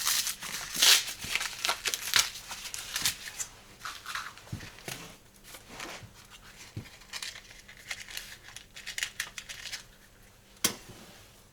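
Paper and cardboard being torn and crumpled by hand: a run of dry rustles and crackles, densest in the first few seconds, then thinning to scattered rustles, with one sharp crack near the end.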